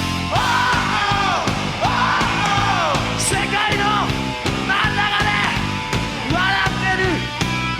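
Rock band music with a singer holding long, wavering notes over a steady drum beat.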